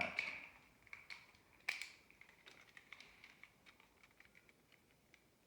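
Beyblade Burst top's parts clicking and ticking as they are handled and twisted together, with one sharper click about a second and a half in; the clicks thin out after about four seconds.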